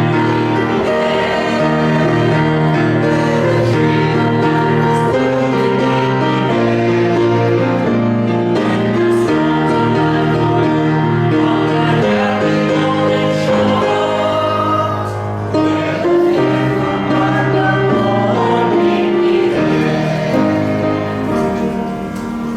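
Congregation singing a hymn with instrumental accompaniment, in long held chords that change every second or two.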